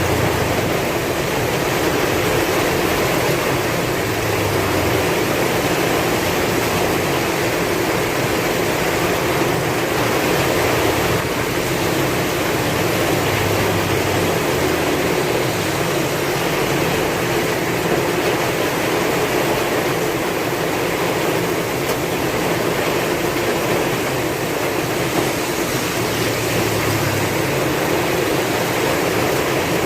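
Heavy rain falling with strong wind: a dense, steady hiss over a low rumble that swells and fades with the gusts.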